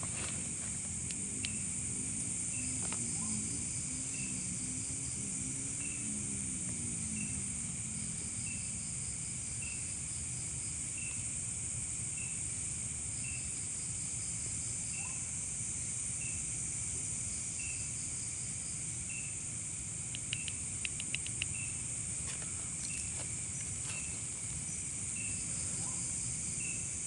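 Night insect chorus: a steady high-pitched buzz of crickets, with one short chirp repeating evenly a little more than once a second, and a few light clicks about twenty seconds in.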